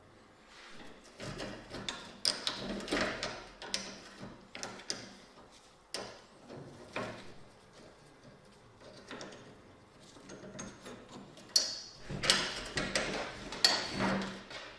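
Hand work on a part: irregular scraping and rubbing strokes in clusters, with a few sharp clicks.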